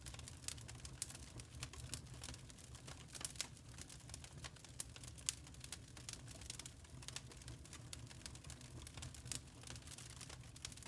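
Burning charcoal crackling: quick, irregular small pops and ticks over a steady low rumble.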